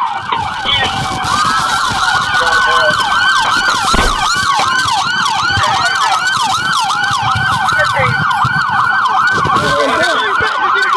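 Several police car sirens sounding at once: one in a fast, repeating yelp and another in a slower rising-and-falling wail. A brief thump comes about four seconds in.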